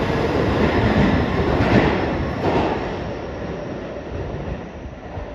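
Keihan 3000 series train running out of an underground station into the tunnel. Its rumble and wheel clatter over the rail joints fade steadily as it draws away.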